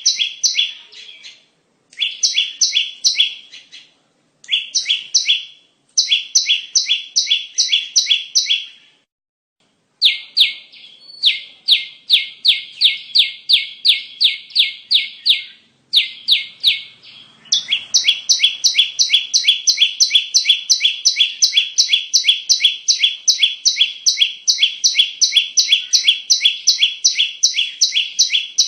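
Bar-winged prinia (ciblek) call played as a bird-lure recording: a fast series of sharp chirps, about four a second, in bursts broken by dead-silent gaps, then running on without a break from a little past halfway.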